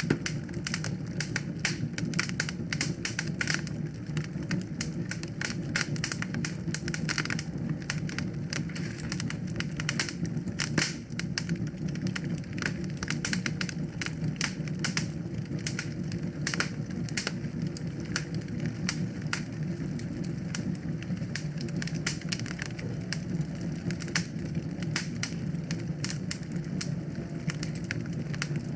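Wood fire in a fireplace crackling: rapid, irregular snaps and pops over a steady low rush of burning.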